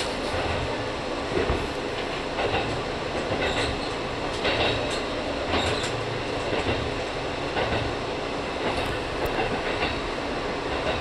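A Wakasa Railway diesel railcar running along the line, heard from inside the car. There is a steady rumble, and the clickety-clack of the wheels over rail joints comes about once a second.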